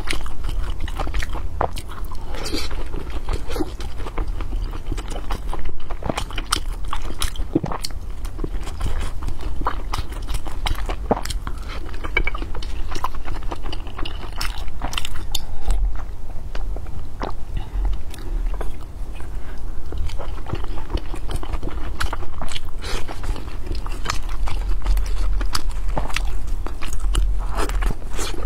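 Close-miked chewing and wet mouth smacks of a person eating soft steamed buckwheat-konjac dumplings in chili oil, many small clicks throughout, over a steady low rumble.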